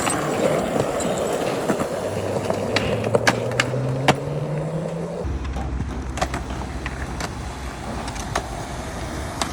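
Skateboard wheels rolling on concrete, with several sharp clacks of the board hitting the ground. Under it a low hum rises slowly in pitch, and the sound changes abruptly about five seconds in.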